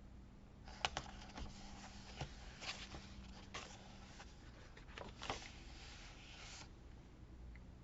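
Paper being handled and rubbed on a journal page: a rustling hiss with a handful of light clicks and taps, the sharpest about a second in, stopping a little before the end.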